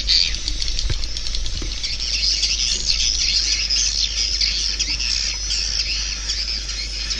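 Swiftlets twittering: a dense, continuous chorus of many overlapping short, high chirping calls, over a steady low hum.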